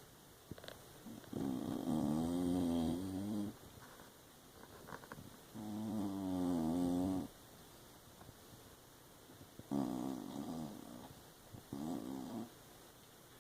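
Hound snoring: four long snores with a wavering hum-like pitch, the last two shorter and closer together.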